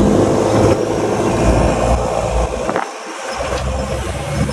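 Mahindra Thar's engine running under load as it is driven over snow, over a loud rushing noise; the engine sound drops away briefly about three seconds in, then picks up again.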